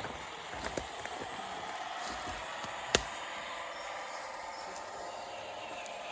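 Electric motor and gearbox of an RC scale crawler truck whining steadily as it crawls over the ground, with a few light clicks and one sharp knock about three seconds in.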